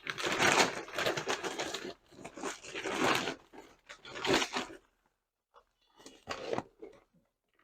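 Rustling and crinkling noises: dense for about two seconds, then in three shorter bursts with quiet gaps between them.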